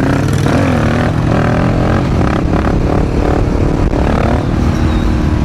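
Motorcycle engine running under way, its pitch rising and falling with the throttle over a steady low rumble.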